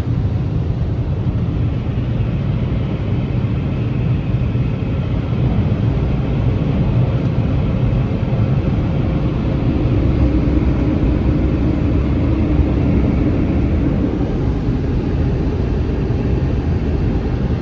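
Car wash air dryers blowing onto a car, a loud, steady rush heard from inside the car, swelling a little about ten seconds in.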